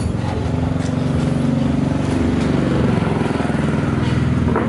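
An engine running steadily, its pitch rising a little in the middle and settling again, with a sharp metallic knock near the end.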